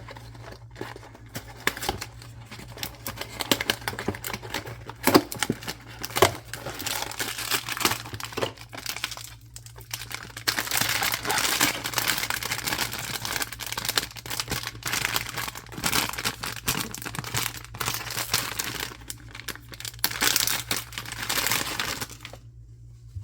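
Packaging being crinkled and torn open by hand: scattered clicks and taps at first, then a long stretch of continuous crinkling from about ten seconds in that stops abruptly shortly before the end.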